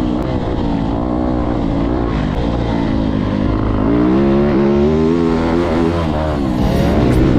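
Motorcycle engines revving, their pitch rising and falling again and again.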